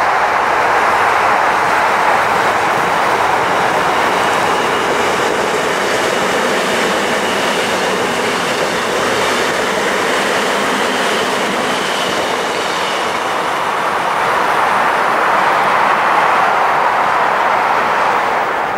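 Gyeongui-Jungang Line electric commuter train passing, a steady rushing noise of wheels on rail, with a faint high whine around the middle as the cars go by.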